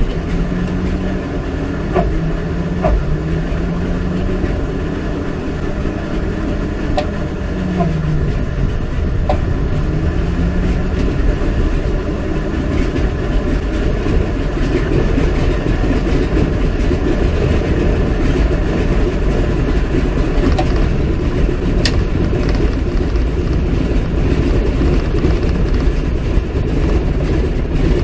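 The Pratt & Whitney R-985 radial engine of a CAC Winjeel running, loud and continuous. A humming tone rises and falls in pitch during the first dozen seconds or so, then the engine noise holds steady.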